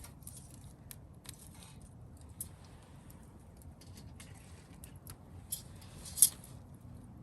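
Wood campfire crackling, with irregular small snaps and one loud pop about six seconds in.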